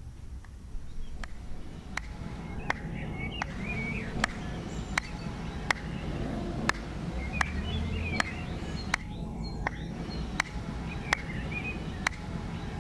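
Faint bird chirps over a quiet steady background, with a sharp tick about every three-quarters of a second.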